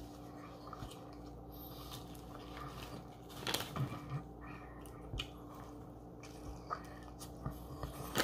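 Quiet chewing and eating sounds from a cheeseburger. The foil-lined paper wrapper crinkles briefly a little under halfway through, and a few sharp bites and mouth clicks come near the end, over a faint steady hum.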